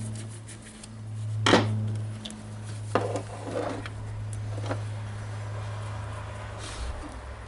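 A few sharp clicks and knocks of small parts and tools being handled on a workbench, the loudest about one and a half seconds in, over a steady low hum.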